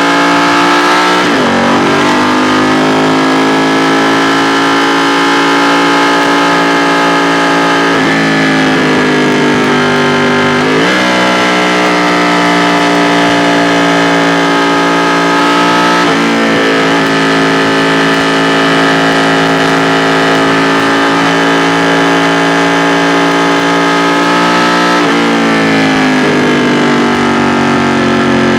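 2016 Ducati XDiavel S V-twin engine and exhaust under way, holding a steady note for long stretches. The pitch dips and climbs again about a second in, around ten seconds, around sixteen seconds and around twenty-five seconds, with throttle and gear changes.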